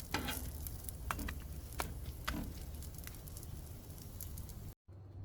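Quesadilla frying in a pan: a soft sizzle with scattered crackles and pops, which cuts off abruptly near the end.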